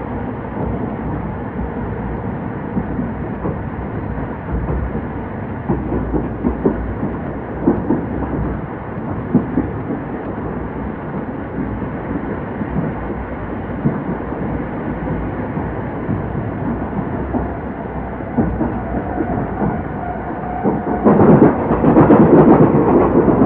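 Running noise inside an old-type passenger coach hauled by an EF70 electric locomotive: a steady rumble with irregular clacks of the wheels over rail joints. About 21 seconds in, the rumble suddenly grows much louder.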